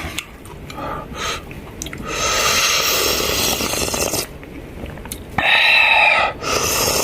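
A person sipping and slurping hot soup, with small mouth and chewing sounds. There is a long noisy slurp about two seconds in and a shorter, louder one near the end.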